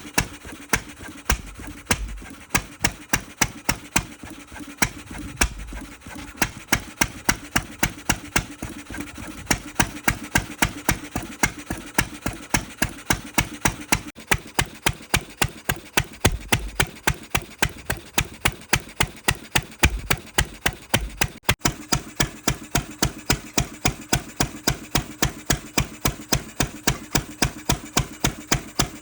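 Ruston 6PS stationary engine running steadily, with a regular knocking beat about three times a second over a low steady hum.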